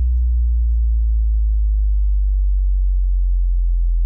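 Loud, deep sub-bass tone from a DJ sound-check track, held steadily while its pitch sinks slowly.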